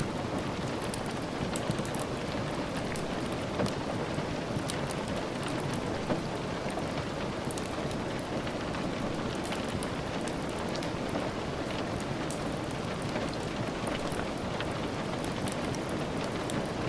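Steady rain, an even wash of noise with many small, sharp ticks scattered through it.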